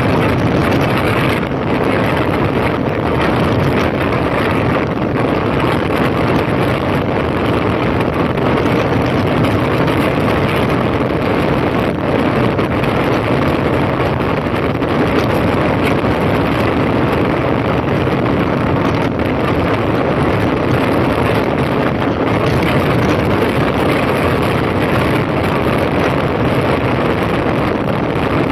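2005 Honda CB1300's inline-four engine running steadily while riding, mixed with wind rush over the microphone.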